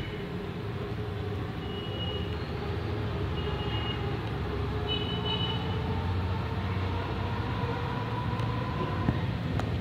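Steady low background rumble, like distant traffic, with a few short, high bird chirps in the first half.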